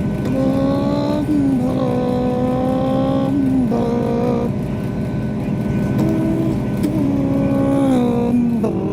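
A diesel train's engine revs up under power, heard from on board. Its note holds, then steps down several times, eases off briefly in the middle and comes back, over a steady running rumble.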